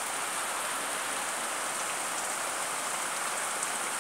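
Steady rain falling on the ground, roofs and plants: an even hiss flecked with faint drop ticks.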